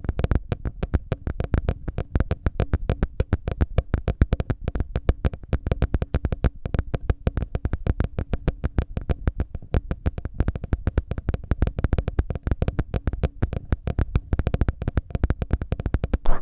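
Rapid close-miked tapping on the microphone, about seven or eight taps a second, keeping a steady rhythm: an ear-cleaning ASMR sound.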